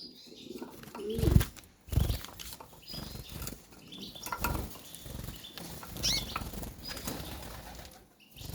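Caged white canaries fluttering their wings in bursts, with a few short high chirps.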